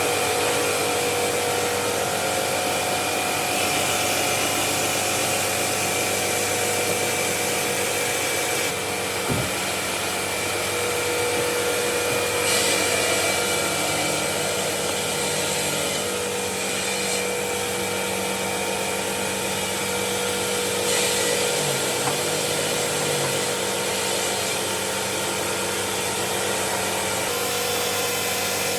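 Stone-working machinery in a marble factory running steadily: a continuous hiss with a steady whine, its character shifting slightly a few times.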